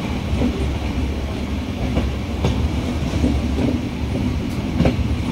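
Passenger express train coaches running through a curve, heard from on board: a steady rumble of wheels on rail with a few sharp, irregular clacks.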